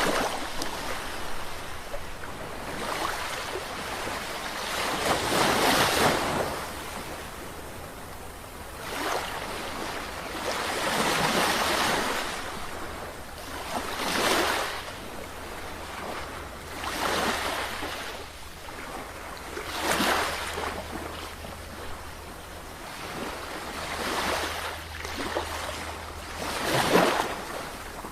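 Sea waves breaking and washing in, one surge every few seconds.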